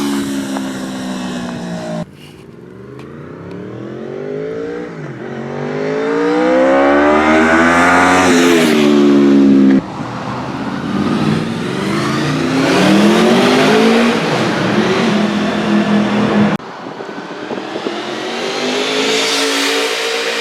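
Honda VFR800 RC46's V4 engine pulling up through the revs in long rising climbs, with the pitch dropping back between some of them. The sound cuts abruptly from one take to the next about two, ten and seventeen seconds in.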